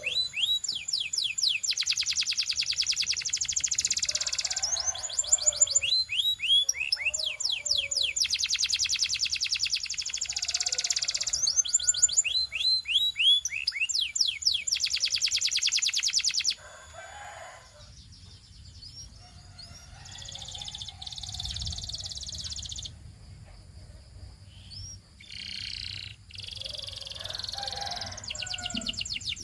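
Canary singing: fast rolling trills alternating with runs of quick downward-sweeping chirps. The song is loud for the first half, then turns quieter and more broken about 17 seconds in.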